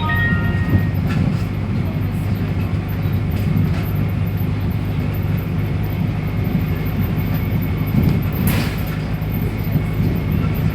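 Steady running drone of a public transport vehicle heard from inside while it moves, with a short electronic beep at the start and a brief hiss about eight and a half seconds in.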